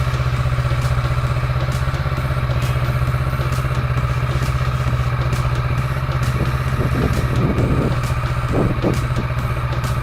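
Motorcycle engine idling steadily, with a few short louder sounds near the end.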